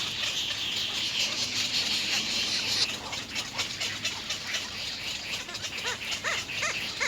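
Nestlings in the nest giving short, repeated rising begging calls, strongest in the last couple of seconds. Under them is a high, dense hiss that cuts off about three seconds in, with scattered clicks throughout.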